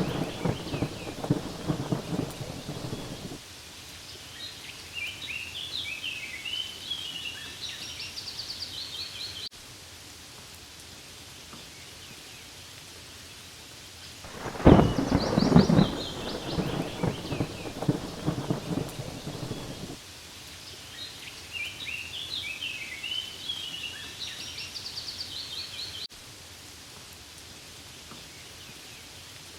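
Steady rain falling on leaves, with a rumble of thunder at the start and again about halfway through, each a few seconds long and cutting off abruptly. Quick runs of high-pitched chirps come between the rumbles.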